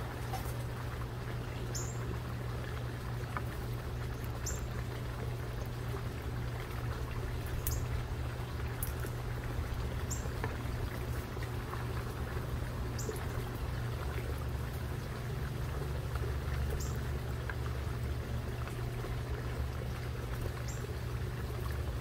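Steady low background rumble, with short, high, slightly falling bird chip notes about every two to three seconds.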